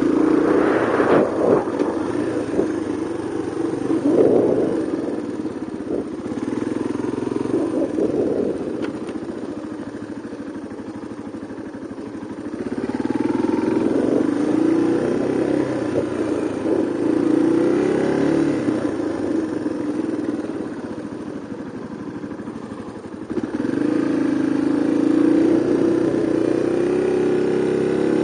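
Yamaha Serow 225's air-cooled single-cylinder four-stroke engine heard from onboard, revving up and easing off again and again as the bike is ridden. It settles to a quieter, lower run for a few seconds around ten seconds in and again shortly before the end, then picks up sharply near the end.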